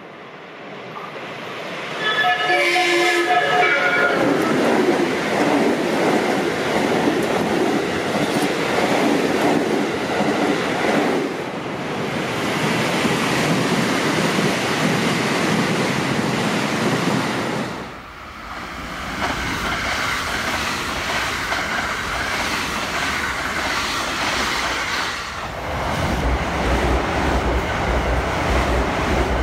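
JR West electric trains passing at speed one after another. A horn sounds for about two seconds near the start. Then comes the steady rumble of wheels on rail, broken by cuts to new passing trains. The last pass ends in a regular clickety-clack of wheels over rail joints.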